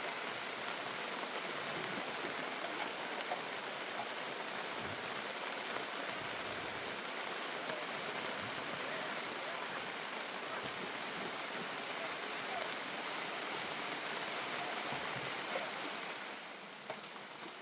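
Rain falling steadily, a dense even hiss of drops, growing a little quieter just before the end.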